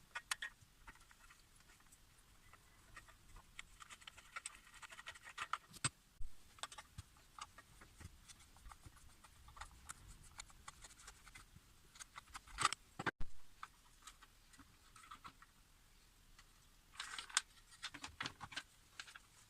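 Scattered light clicks, taps and scrapes of small parts and hand tools being handled, with a sharper clatter about two-thirds of the way through and a busy cluster of clicks near the end.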